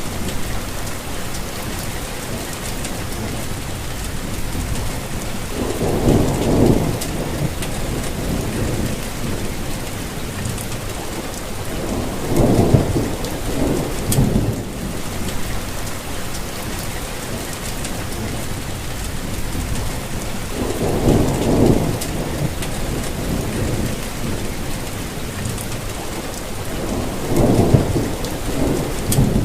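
Steady rain falling, an even hiss throughout. A low rumble swells up four times, each lasting a second or two.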